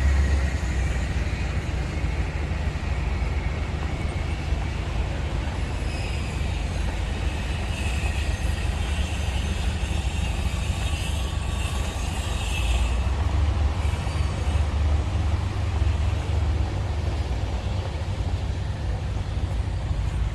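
Steady low rumble of city traffic mixed with wind noise, with a louder hiss from about six to thirteen seconds in.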